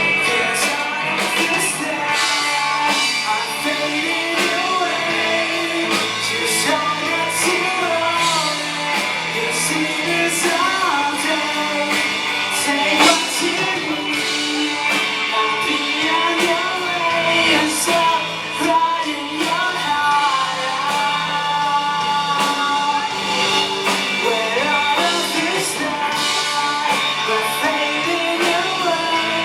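Live rock band playing a cover song: electric guitar and drum kit with a lead singer, echoing in a large room.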